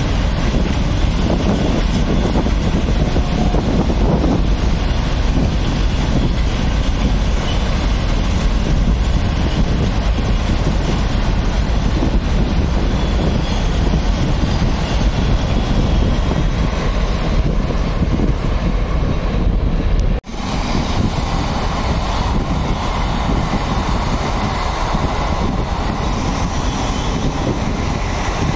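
Long freight train of covered goods wagons running past at full speed, a steady rumble of wheels on the rails. About two-thirds through, the sound cuts off abruptly and an electric MEMU commuter train is heard passing at speed.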